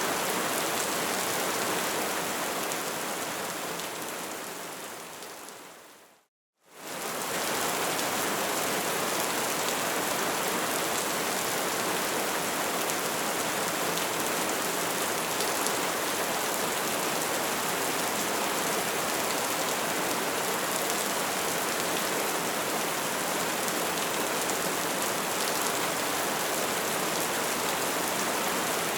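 Crackling fire: a dense, steady crackle over a hiss of burning. About four seconds in it fades out to a brief moment of silence, then quickly fades back in.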